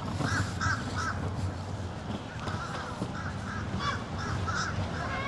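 A bird calling repeatedly in short, harsh calls: three in quick succession near the start, then a longer run of calls from about halfway, over steady low outdoor background noise.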